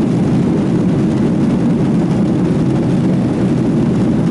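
Steady drone of an airliner's engines and airflow heard inside the passenger cabin.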